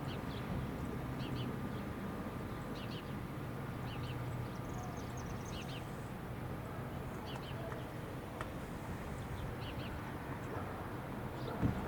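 A bird chirping in short high notes, often in quick pairs, repeating about once a second, over a steady low rumble.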